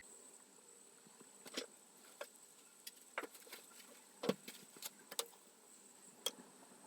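Faint, irregular light clicks and taps, about ten scattered over several seconds, of small household objects being handled, over a steady faint high-pitched hiss.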